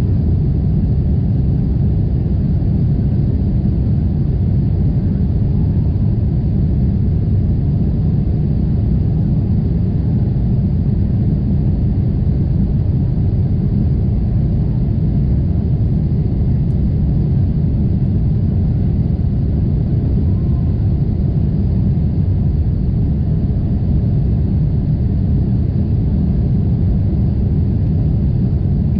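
Steady low rumble of cabin noise inside a Boeing 747-8 airliner in flight: airflow and engine noise heard from a window seat, even and unchanging.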